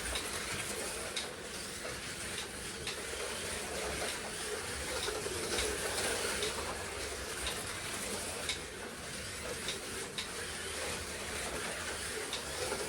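Slot cars racing around a plastic track: a steady mechanical hiss and hum with short light ticks recurring every half second to a second.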